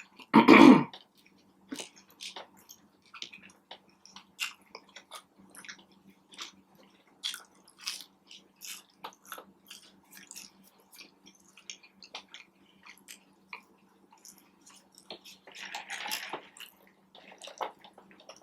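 A person chewing a spicy fried chicken sandwich close to the microphone: many short, wet mouth clicks and soft crunches, with a louder burst about half a second in. A faint steady hum runs underneath.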